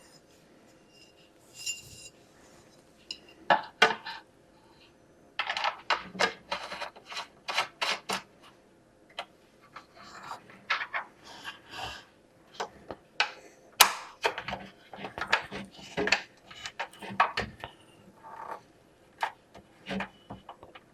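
Small hard parts of a bird feeder kit being handled and fitted together: a long run of irregular clicks, taps and light clinks.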